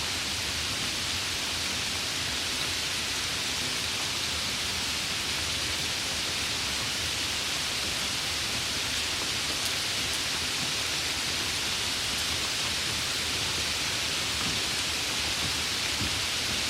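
Steady rain falling without a break: a dense, even hiss.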